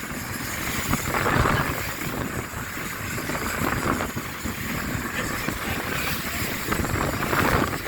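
Wind buffeting the microphone over the rushing noise of boats running on open water, rising and falling in gusts.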